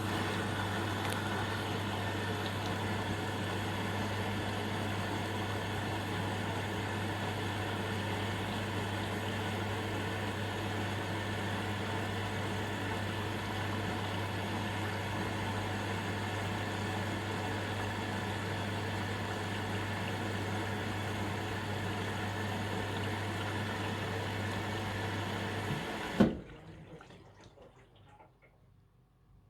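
Indesit washing machine's water inlet valve filling the drum at the start of a cotton cycle: a steady rush of water with a constant low hum. It starts suddenly and cuts off with a clunk about 26 seconds in.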